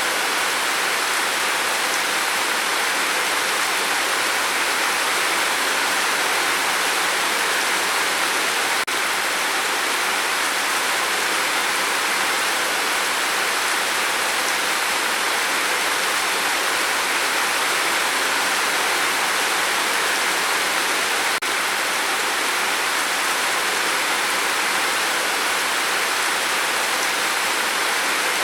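Steady rain falling, an even hiss with no distinct drops standing out, and two faint ticks, about nine and twenty-one seconds in.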